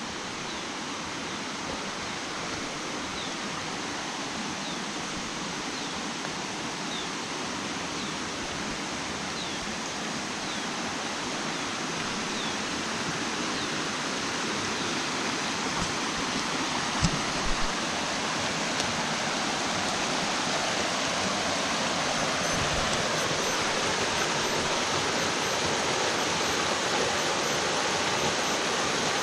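Forest mountain stream rushing, running full after heavy rain, a steady dense wash of water that slowly grows louder. A few faint high chirps sound in the first half, and a couple of brief knocks a little past the middle.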